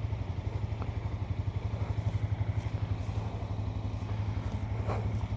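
Motorcycle engine idling steadily, with an even, regular pulsing beat.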